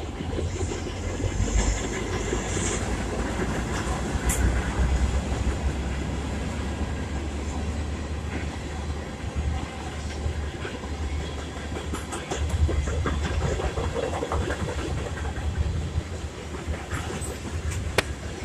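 CSX freight train passing close by: the diesel locomotive goes by at the start, then a long string of tank cars and covered hoppers rolls past with a steady low rumble. Wheels click and knock over the rail joints, with a few sharper knocks.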